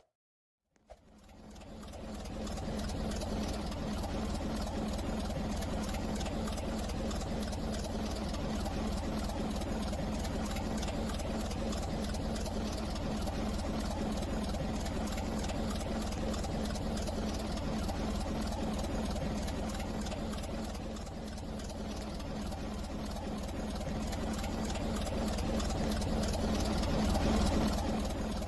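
Steady running noise of a moving train heard from inside the carriage, a low rumble with a steady hum. It fades in about a second in, eases slightly around two-thirds through, then swells near the end.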